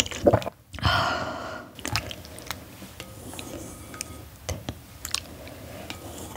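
Close-miked wet chewing of soft noodles and oysters in broth, with small sticky mouth clicks throughout and a louder, longer wet stretch about a second in.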